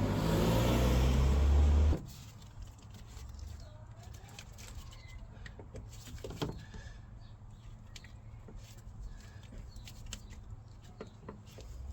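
A loud, steady, low engine-like drone stops abruptly about two seconds in. After it come quiet, scattered clicks and knocks, like parts being handled.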